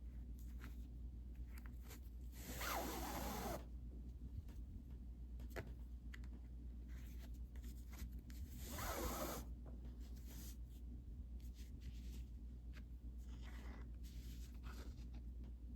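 Yarn pulled through a plastic mesh canvas: two long pulls of about a second each, a couple of seconds in and about nine seconds in, with small ticks and taps of the needle and yarn against the mesh in between.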